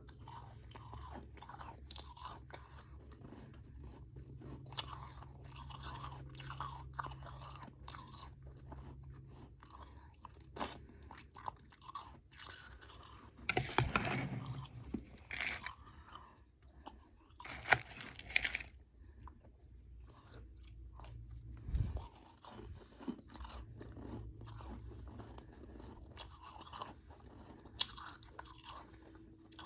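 Close-miked crunching and chewing of powdery frozen freezer ice with some harder chunks: a run of soft, crisp crunches, with louder bursts of crunching about halfway through and again a few seconds later.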